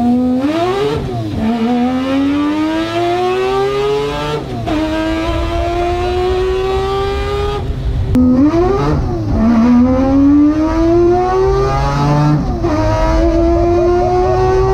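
A Mazda RX-7's rotary engine under hard acceleration, heard from inside the cabin. The pitch climbs steadily in each gear and drops sharply at each of several upshifts.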